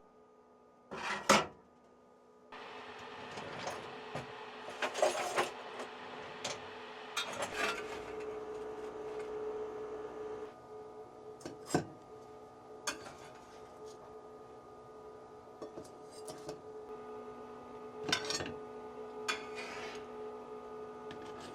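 Kitchenware being handled: dishes, cups and cutlery clinking, knocking and rubbing, with a few sharp knocks. A rushing noise runs through the first half, and a steady hum lies underneath.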